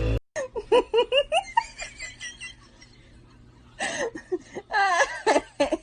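High-pitched laughter in quick, short bursts for about a second. After a lull, a second longer round of giggling comes near the end.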